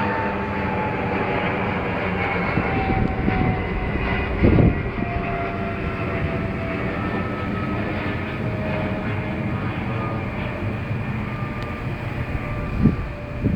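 Steady motor vehicle noise: engine hum under a continuous wash of noise, with faint pitches slowly falling, and a short thump about four and a half seconds in and another near the end.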